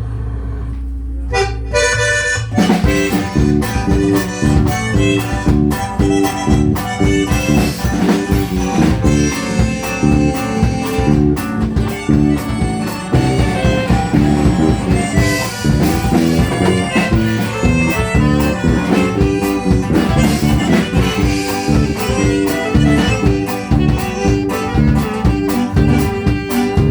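Norteño band playing an instrumental passage: a button accordion carries the melody over strummed strings and a steady pulsing bass. The full band comes in about two and a half seconds in.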